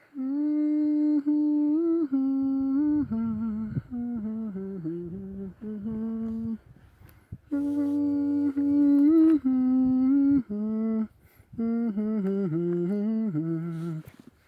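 A person humming a tune with closed lips, in phrases of held notes that step up and down, pausing briefly for breath three times.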